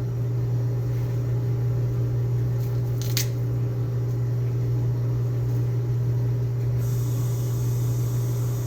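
A steady low electrical or appliance hum with one short click about three seconds in.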